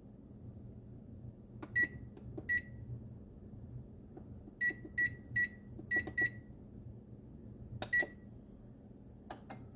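Kitchen appliance control-panel buttons being pressed: eight short beeps on one high pitch, each with a click, at irregular intervals as settings are keyed in. A few more clicks follow near the end, over a steady low hum.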